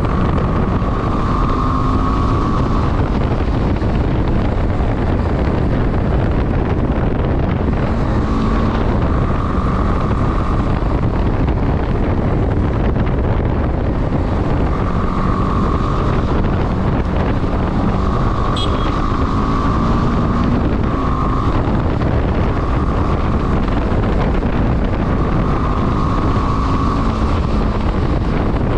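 Motorcycle riding at speed: a steady engine drone under heavy wind noise buffeting the microphone, with a faint humming tone that comes and goes.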